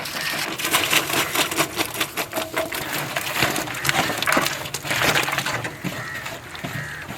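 Sliced onions being added to the fish curry base and worked in by hand: a dense, irregular run of crackling and rustling.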